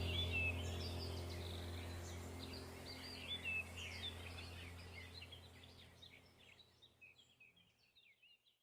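Small birds chirping and singing in quick, varied notes over a low, steady drone. Everything fades out gradually to silence.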